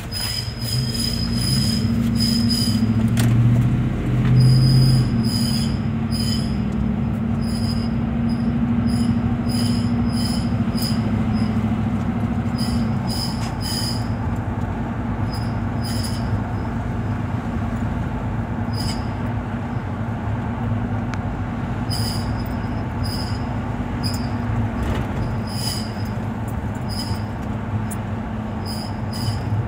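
A 2007 Ford F-150 screeching at the rear passenger-side wheel: short high-pitched squeals, quick-fire at first, then repeating every half second to a second. A steady low rumble from the truck runs under them. The owner says the screech seems to be triggered by turning.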